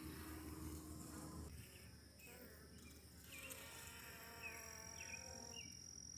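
Honeybees buzzing faintly around an opened hive, one nearby bee humming steadily for about the first second and a half.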